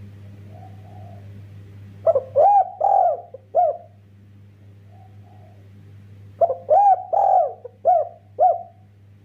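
Spotted dove (derkuku) cooing: two loud phrases of four to five short notes each, about four seconds apart, with a couple of soft, faint coos between them. A steady low hum lies underneath.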